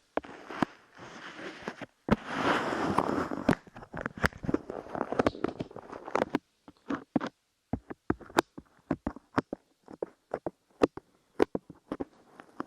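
Light clay worked close to the microphone: dense sticky crackling and clicking for about the first six seconds, then separate sharp clicks and taps.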